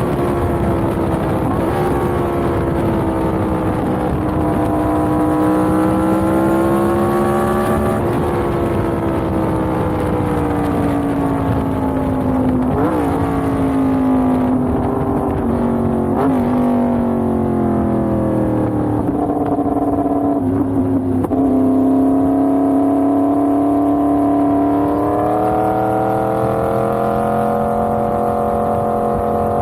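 Yamaha MT-10's crossplane inline-four engine running steadily under way, its pitch drifting slowly down and then back up. A couple of short sharp pitch jumps come about halfway through, and a brief break follows a few seconds later.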